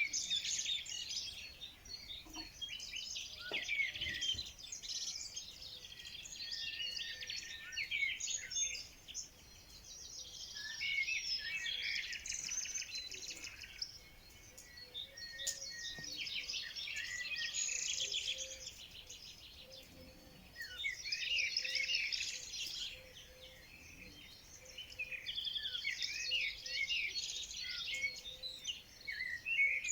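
Several songbirds singing and chirping together, in overlapping bouts of quick high trills and twitters that swell and fade every few seconds.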